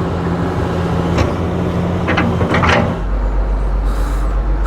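Excavator diesel engine running steadily, with a few short knocks in the first three seconds; about three seconds in, the engine note drops to a deeper, steadier drone.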